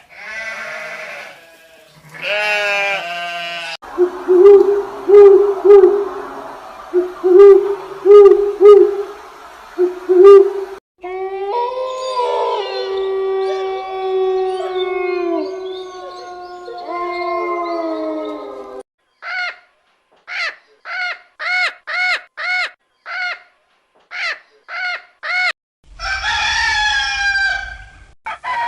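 A sequence of different animal calls, one recording cut straight to the next. It runs from a rapid string of low hoots, through a stretch of overlapping calls, to a run of about a dozen short, evenly spaced calls, then a harsher call near the end.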